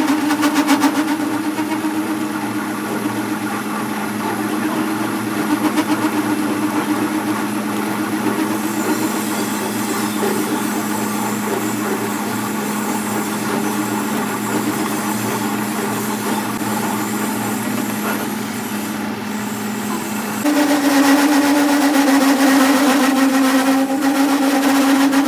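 A workshop machine running steadily with a constant hum; it gets louder and slightly higher about 20 seconds in.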